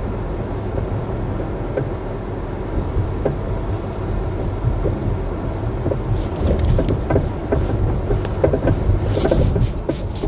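2008 Acura RDX driving over bumps: steady road rumble with scattered short knocks, which become more frequent and sharper in the last few seconds. The owner describes the knocks as a suspension knock that sounds like it comes from the front end.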